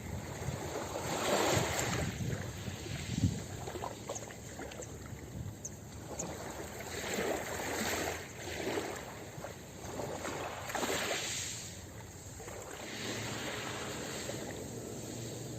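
Ocean surf washing onto a beach, the rush of water swelling and falling back several times.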